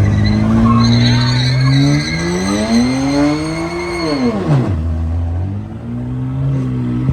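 A car engine revving hard, its pitch climbing for about four seconds over tyre squeal. About four and a half seconds in the revs drop sharply, and the engine then runs on at lower, steadier revs.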